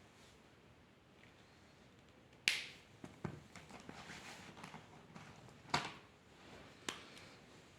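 Four sharp clicks, the loudest about two and a half seconds in and the others near three, six and seven seconds in, with light rustling between them.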